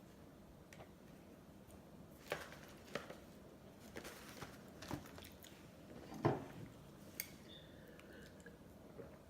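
Close-miked mouth sounds of someone eating ice cream: a scattered run of short wet clicks and smacks, the loudest about six seconds in, over a quiet background.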